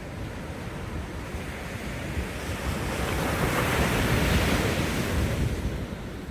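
Ocean wave breaking and washing up a sandy beach, the rush swelling to a peak midway and then receding. Wind buffets the microphone with a low rumble throughout.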